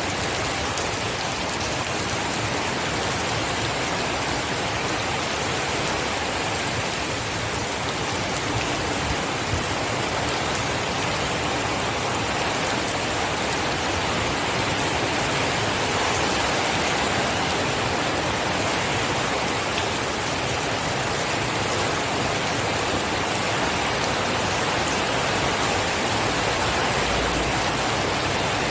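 Steady, heavy rain falling, an even dense hiss of drops with no thunder.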